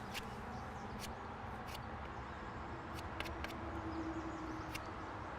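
Steady faint outdoor background noise with a handful of short, light clicks scattered through it.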